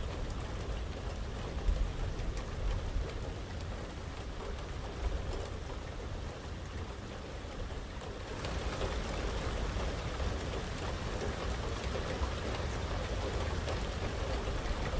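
Heavy rain falling steadily over a low rumble, becoming heavier and louder a little past halfway.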